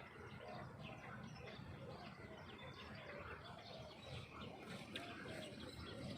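Faint chirps and calls from several small birds, short and scattered throughout, over a low steady background rumble.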